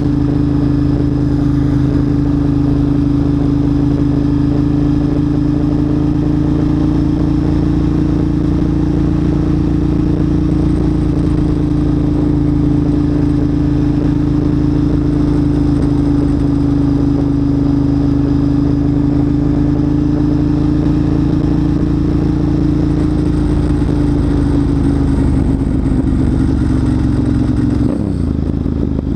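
Motorcycle engine running at a steady cruise, picked up by a helmet-mounted camera on the chin vent. Near the end the engine note drops briefly, as when the throttle eases off, then picks back up.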